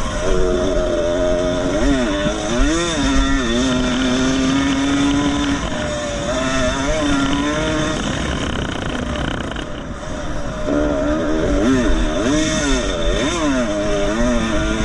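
Two-stroke 125 cc motocross motorcycle racing, its engine pitch climbing and falling again and again as it accelerates and backs off between gear changes, with a brief dip about ten seconds in.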